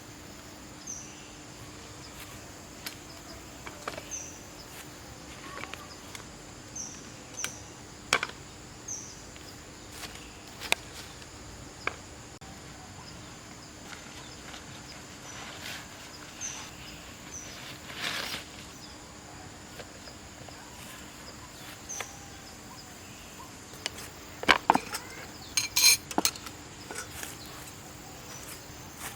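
Scattered clinks and knocks of metal cookware and utensils, with a quick cluster of louder knocks near the end. Short high chirps repeat every second or so in the background.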